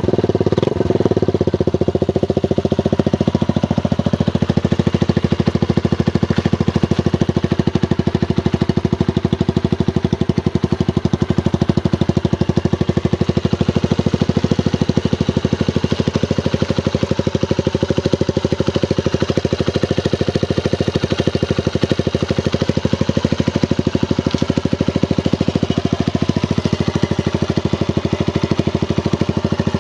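Suzuki GN125's single-cylinder air-cooled four-stroke engine idling steadily, with an even pulse of firing strokes.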